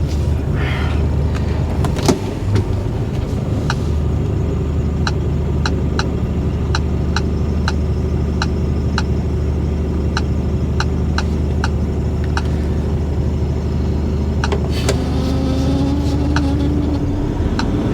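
Lorry's diesel engine running, heard from inside the cab, with the indicator ticking about twice a second through the middle; a short rising whine comes in near the end.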